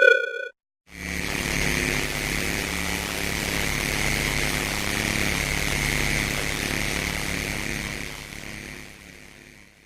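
Futuristic robot sound effect: a steady, buzzing mechanical drone that starts about a second in and fades out near the end. A short chime-like tone is heard right at the start.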